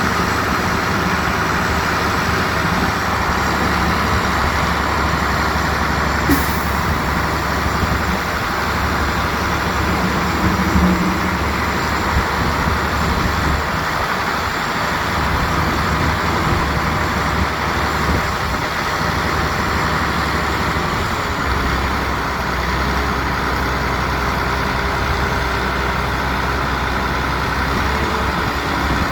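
Heavy diesel construction machinery running steadily under load, with a single sharp click or knock about six seconds in.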